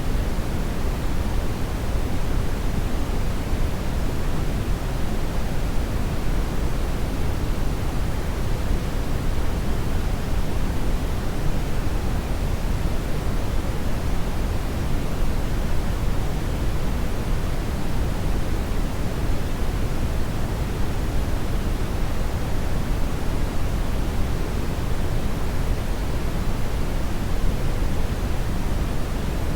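Continuous, even rushing noise, strongest in the low end, with no tone, rhythm or change.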